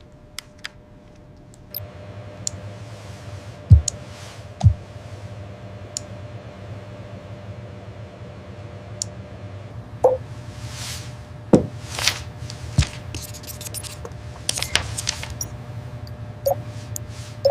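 A steady low hum with two heavy thuds about four and five seconds in, then scattered clicks, knocks and brief swells of noise.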